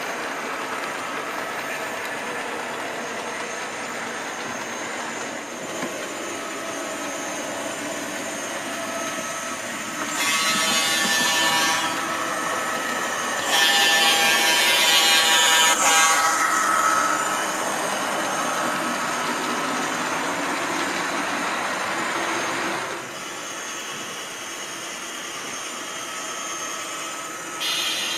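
Sound decoder of an HO-scale Fepasa G12 model locomotive, playing a steady diesel engine sound as the model runs. Two loud horn blasts come about ten and thirteen seconds in, the second one longer, and a short one comes near the end.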